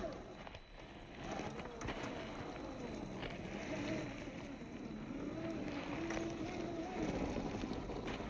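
Electric motor and gearbox of an RC4WD TF2 scale crawler whining as it drives, the pitch rising and falling with the throttle, with scattered clicks and crunches.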